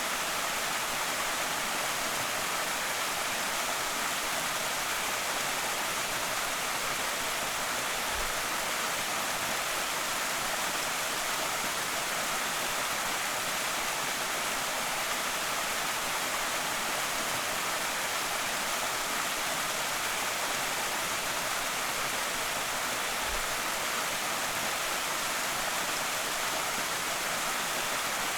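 Small creek waterfall rushing steadily, a dense even hiss of falling and splashing water, with two faint low thumps about 8 and 23 seconds in.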